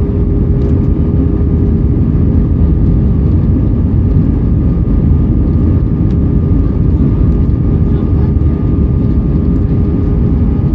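Steady cabin roar of an Airbus A320-232 on approach, its IAE V2500 turbofans and the airflow heard from a passenger seat, with a couple of faint held tones over the roar.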